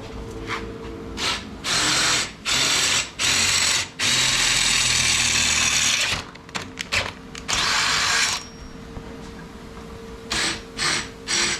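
Handheld power tool driving a fastener in bursts: three short runs, then a longer run of about two seconds, another short run, and a few quick blips near the end.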